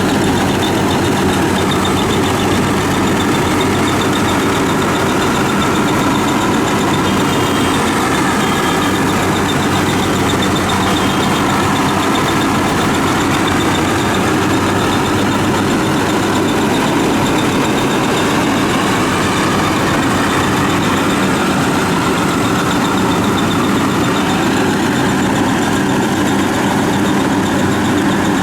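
WD 102 rice combine harvester's diesel engine running steadily, with no change in speed.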